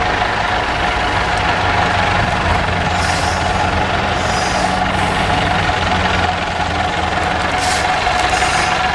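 IFA truck's diesel engine running steadily, a little stronger in the middle, with three short hisses of released air.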